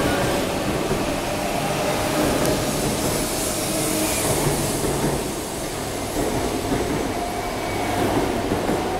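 Train cars rolling past close by: a steady rumble of wheels on rail, with a faint thin squeal over it.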